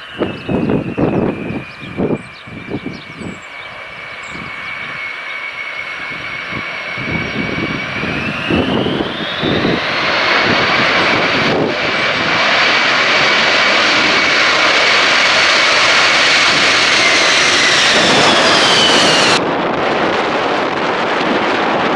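Three-engine turbofan jet of a KC-10A Extender landing, its engines' whine sliding down, then rising sharply in pitch about eight seconds in as the sound grows much louder, holding, and falling again near the end. Gusts of strong wind buffet the microphone in the first few seconds.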